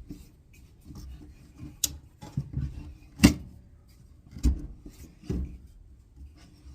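An ACE side-folding stock mechanism on a rifle being tested by folding and unfolding the stock. Its hinge gives sharp clacks as it latches, about four of them spread a second or so apart, the loudest near the middle, with handling rubs between them.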